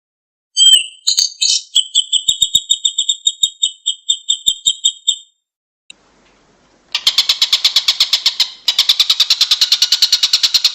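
Songbird calls from a bird-training track: a fast run of sharp, high, repeated chirps for about five seconds. After a short pause a rapid, buzzy rattling trill starts and keeps going.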